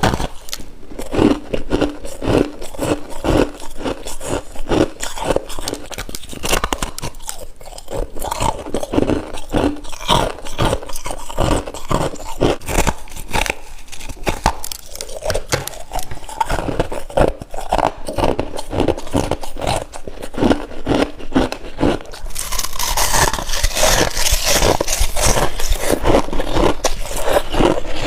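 Soft white freezer frost being bitten and chewed close to the microphone: a rapid, continuous run of crunches. The crunching turns louder and hissier about 22 seconds in.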